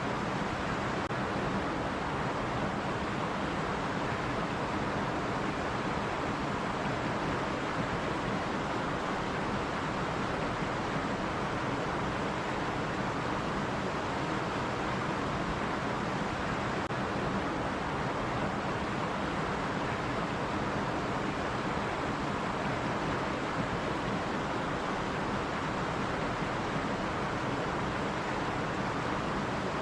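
Steady rushing of a running stream, an even unbroken water noise with no distinct splashes or other events.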